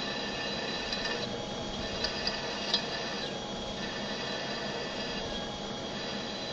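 Steady hum of a Comet 3KVHD milling machine running, with a few light metallic clinks about one to three seconds in.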